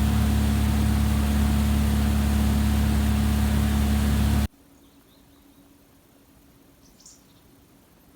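A loud, steady mechanical hum with hiss, like an engine or motor running, cuts off abruptly about four and a half seconds in. Then there is a quiet outdoor background with a few faint, high chirps.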